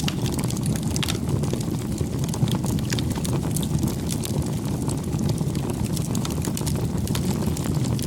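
Campfire burning: a steady low rush of flame with frequent irregular crackles and pops from the wood.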